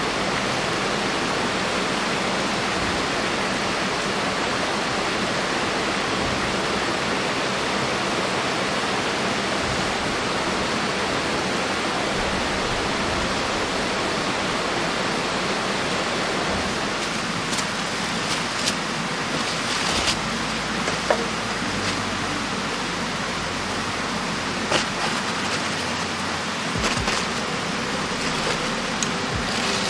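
Rain falling steadily as an even rushing hiss. From a little past halfway, scattered sharp clicks and knocks sit over it.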